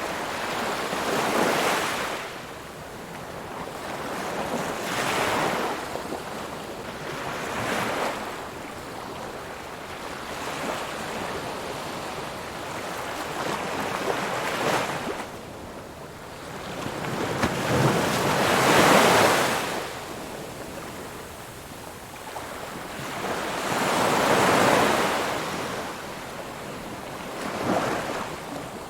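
Ocean surf: waves break and wash in, about seven swelling surges of rushing noise a few seconds apart. The loudest comes about two-thirds of the way through.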